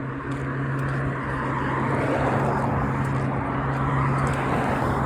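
A car passing on the road, its tyre and engine noise swelling from about two seconds in, over a steady low hum.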